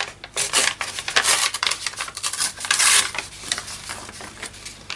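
Paper being handled on a craft desk: sheets rustling and crackling in a run of crisp, scratchy bursts and clicks, with two louder rasping bursts a little after one second and near three seconds.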